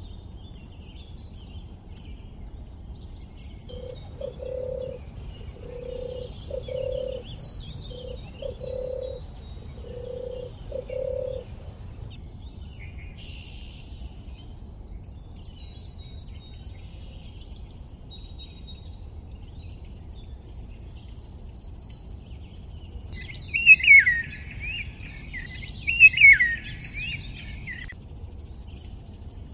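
Birds calling: a low note repeated several times, faint scattered high chirps, and two loud downward-sweeping calls near the end.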